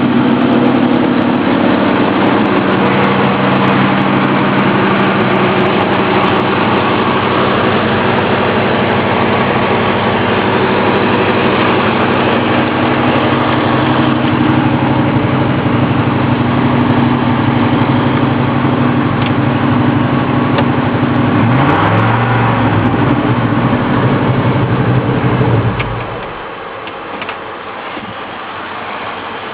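1979 Ford F-150 Ranger pickup's engine idling steadily, then rising in pitch about two-thirds of the way through and holding the higher speed for a few seconds before its sound cuts off near the end, leaving only background noise.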